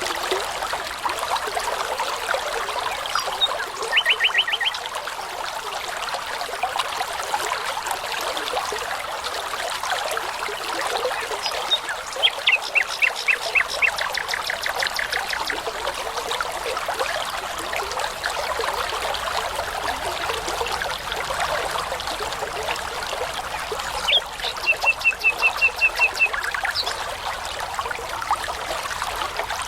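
Brook water running steadily, with a songbird singing three short phrases of rapidly repeated high notes: about four seconds in, around twelve seconds in, and around twenty-four seconds in.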